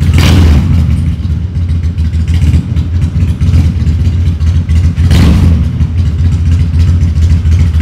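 Black V-twin cruiser motorcycle's engine running with a loud, steady low rumble, with two short louder bursts, right at the start and again about five seconds in.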